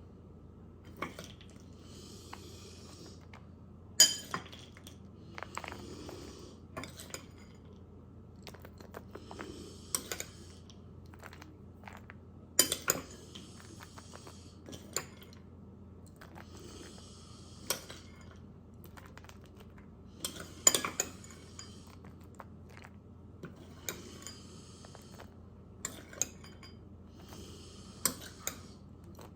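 Utensils clinking and tapping against a dish as pecans are put onto the top layer of a mango-and-cream dessert, with short soft rustles recurring every few seconds between the sharper clinks.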